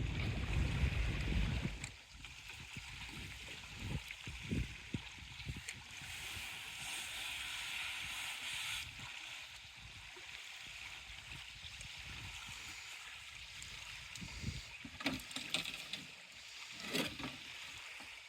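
Canoe being paddled across open lake water, with water rippling and splashing along the hull. Wind buffets the microphone with a low rumble for the first two seconds, and a few sharp knocks come near the end.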